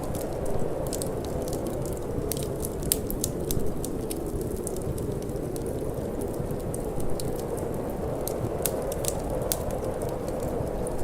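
Wood fire crackling, with irregular sharp pops scattered through, over a steady low rush of cold wind.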